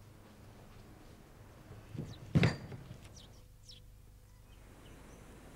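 Faint bird chirps over quiet ambience, with one short sudden sound about two and a half seconds in, preceded by a softer one.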